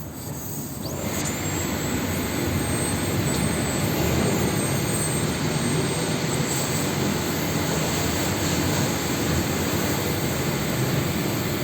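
Gas blowtorch flame burning steadily, heating a lead battery terminal post; the rushing noise swells up about a second in and then holds even.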